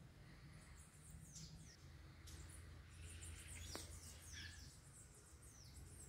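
Small birds chirping faintly: a string of short, high, down-slurred notes, coming thicker from about halfway through.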